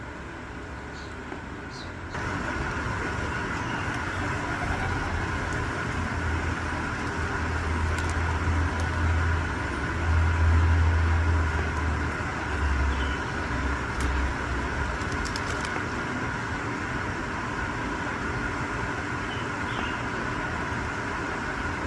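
Steady outdoor background noise that steps up about two seconds in, with a deep rumble that builds, peaks near the middle and fades again, and a few faint short chirps.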